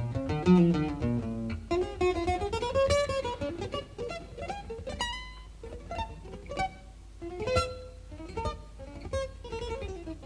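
Live jazz music from a cassette tape recording: acoustic guitar playing a quick run of plucked notes, with some notes gliding up and down in pitch.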